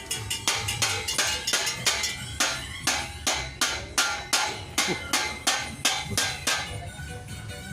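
Metal being struck with a hammer in a steady rhythm, about three ringing blows a second, that stop about six and a half seconds in, over a low steady hum.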